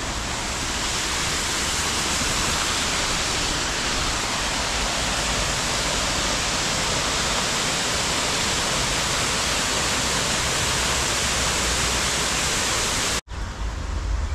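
Upper Düden Falls waterfall: a steady, dense rush of falling water. It cuts off abruptly about a second before the end, giving way to a quieter, lower rumble.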